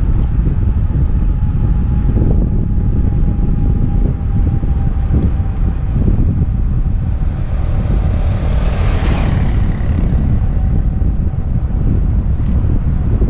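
Wind buffeting a helmet-mounted action camera's microphone while cycling, a steady loud low rumble. About nine seconds in, a hiss swells and fades.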